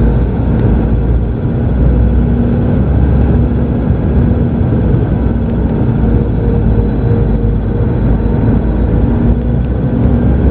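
Steady rumble and roar of a Boeing 717-200 jetliner's twin rear-mounted Rolls-Royce BR715 turbofans and airflow, heard inside the passenger cabin, with a low steady hum running through it.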